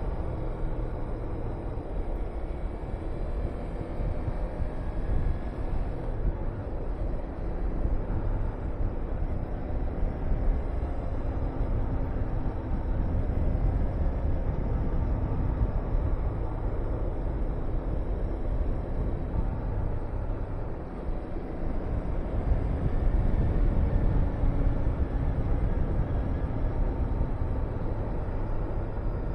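Honda VTR250's V-twin engine running while the motorcycle is ridden, under heavy wind rush and buffeting on the microphone.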